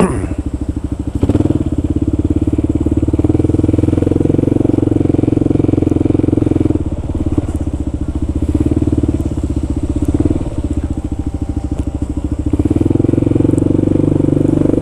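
Kawasaki KLR650 single-cylinder four-stroke engine running under way with a rapid, even pulse. It eases off twice, about seven and eleven seconds in, and picks up again each time as the throttle is rolled back on.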